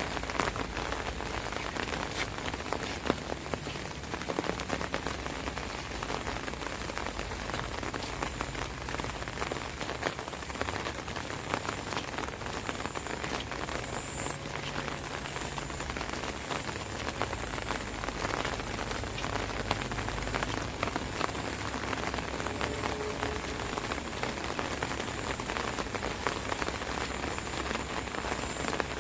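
Steady rain falling on an open umbrella, many individual drops hitting the canopy close overhead.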